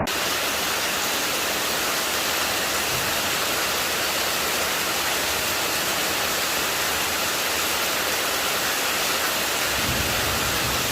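Steady, even hiss of falling water, such as rain or a small waterfall, that starts and stops abruptly.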